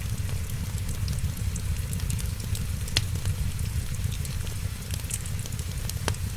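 Wood fire crackling, with many small crackles and two sharp pops, about three seconds in and near the end, over a steady low rumble and light rain.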